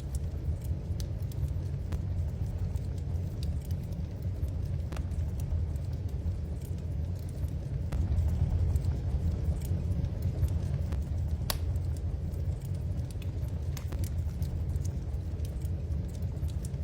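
Wood fire crackling in a fireplace: scattered sharp pops and snaps over a steady low rumble, with one louder pop a little past the middle.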